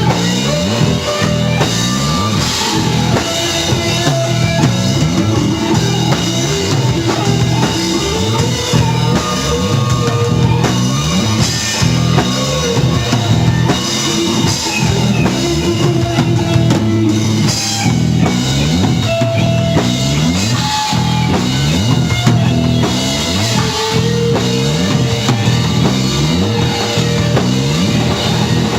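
Rock band playing: a drum kit keeps a steady beat under electric guitar.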